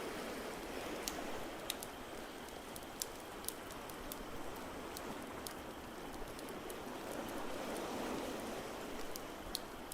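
Crackling fire with sharp pops scattered irregularly over a steady rushing wash of water noise that swells a little past the middle.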